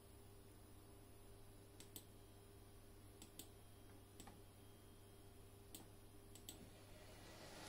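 Faint, sparse clicks, several in close pairs, from an N-scale model train's wheels running over rail joints, over a low steady hum.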